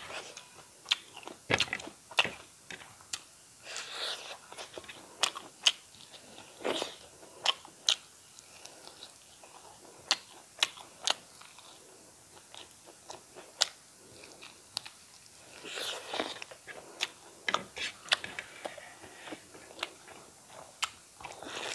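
Close-miked eating sounds from a mouthful of rice and fried eel: chewing and crunching, with many sharp, irregular mouth clicks and smacks.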